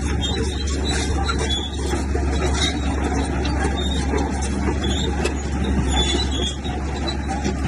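Heavy earthmoving machinery running steadily under a deep diesel drone, with a few short metallic clanks.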